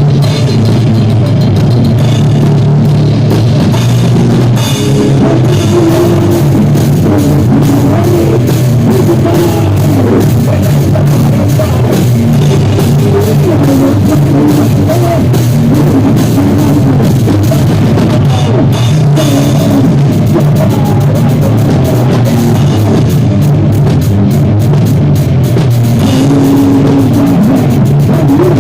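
Live rock band rehearsing: drum kit, bass and guitar playing loud and steady, recorded distorted and bass-heavy.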